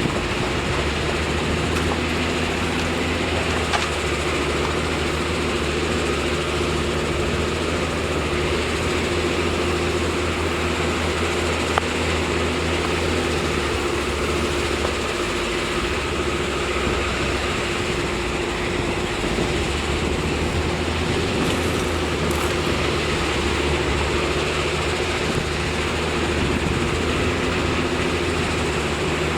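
Heavy diesel earthmoving machinery running steadily with a low engine hum. The low note eases for a couple of seconds about halfway through, then returns.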